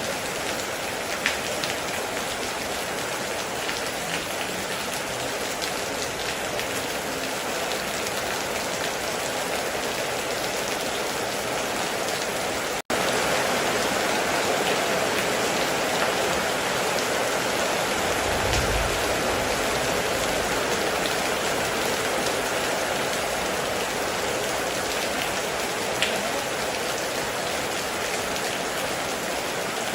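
Heavy rain falling steadily, with a few single louder drop hits. About 13 seconds in the sound breaks off for an instant and comes back a little louder. A short low rumble is heard a few seconds later.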